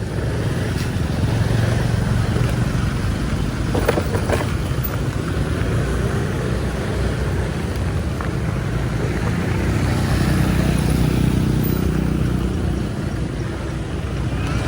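Road traffic: a motor vehicle engine running steadily amid road noise, its engine note coming up more strongly about two-thirds of the way through.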